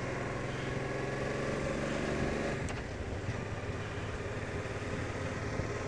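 Suzuki Intruder VL1500LC's V-twin engine running as the motorcycle cruises along, with a steady note that shifts about halfway through.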